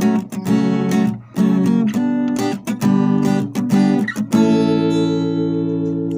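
Acoustic guitar with D'Addario strings playing strummed chords. A final chord about four seconds in rings out and slowly fades.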